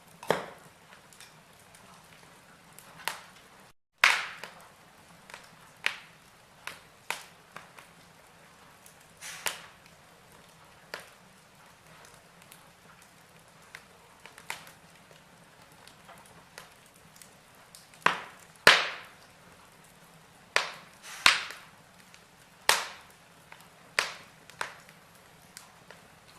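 Logs burning in a fireplace, crackling with irregular sharp pops and snaps over a faint hiss. A run of louder pops comes about two-thirds of the way through.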